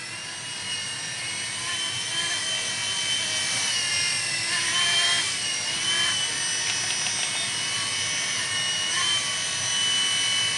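Blade mSR micro helicopter's brushed motor and rotor whining in flight. The pitch wavers about four seconds in, then holds steady. A few quick clicks a little past halfway come from the transmitter's trim buttons, trimming the yaw to the left, as needed on a full battery charge to fly straight.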